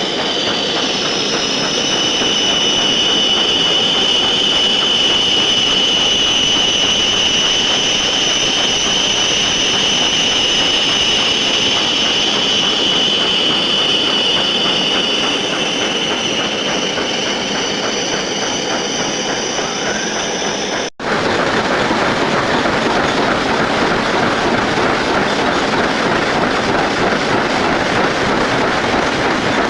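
Metal lathe running and turning a part: a steady machine noise with a high, steady whine. About 21 seconds in, the sound cuts to a rougher, hissier machining noise without the whine.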